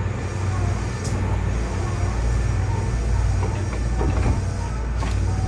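Hankyu 7300 series electric train running, a steady low rumble with a couple of sharp clicks from the track.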